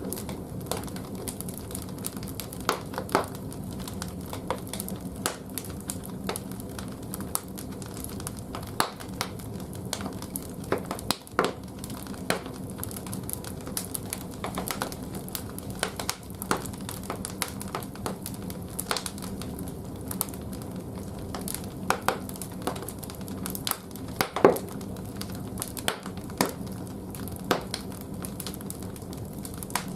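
Firewood burning in a bathhouse boiler's firebox: irregular crackles and pops, one louder pop near the end, over a steady low hum.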